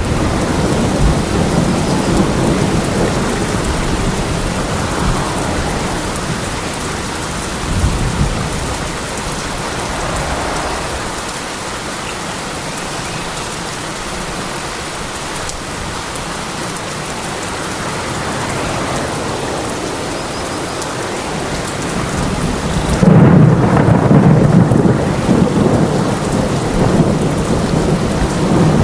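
Steady rain falling with thunder rumbling through it; the thunder fades for a while mid-way, then a loud low rumble of thunder comes about three quarters of the way through.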